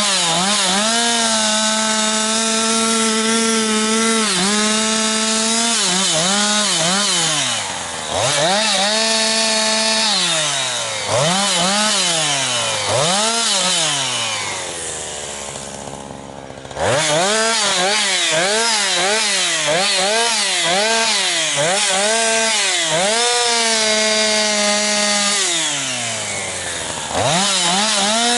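Jonsered 2156 two-stroke chainsaw, running on its rebuilt Walbro HDA199 carburettor, cutting firewood. The engine pitch dips and recovers again and again as the chain loads up in the cut and frees. About halfway through it drops briefly to idle, then throttles sharply back up.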